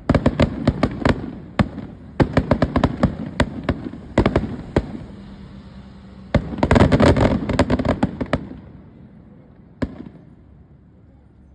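Fireworks crackling: rapid clusters of sharp pops, densest about seven seconds in, dying away after about eight seconds, with one last pop near ten seconds.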